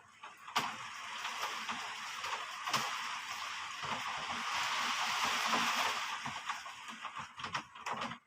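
Heavy rain rushing in a wind-driven gust: a steady hiss that swells over several seconds and eases off near the end, with a few sharp drips ticking on a hard surface.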